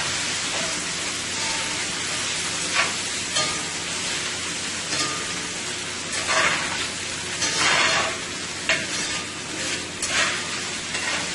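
Thin-sliced chicken stir-frying with garlic and ginger in oil in a 14-inch skillet: a steady sizzle, swelling into brief louder bursts several times as the pan is stirred.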